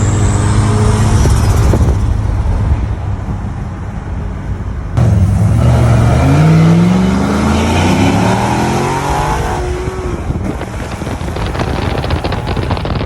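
Car engine accelerating hard, its pitch rising steeply and climbing again after a shift, in a few abruptly cut clips.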